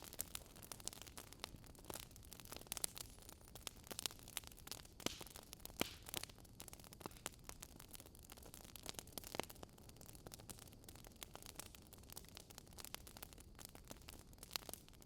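Burning wood fire crackling: irregular sharp pops and snaps, several a second at times, over a soft low hiss of the flames.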